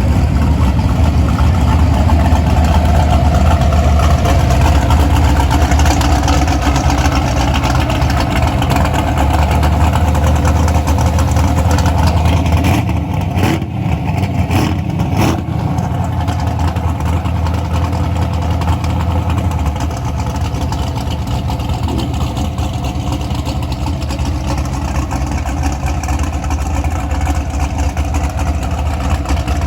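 A vehicle engine running steadily at idle, loud and low-pitched, with a few short sharp knocks about halfway through, after which it is slightly quieter.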